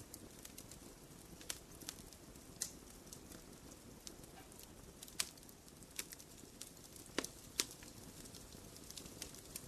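Wood fire burning in a fireplace: a faint, steady low hiss of flames with irregular sharp crackles and pops scattered through, the loudest a second or more apart.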